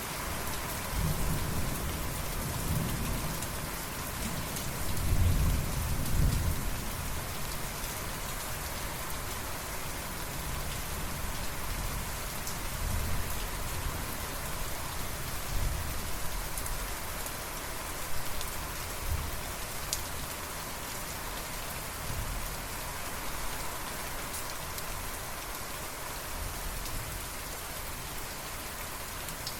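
Steady rain falling, with thunder rumbling low underneath, heaviest in the first several seconds and again briefly about halfway through.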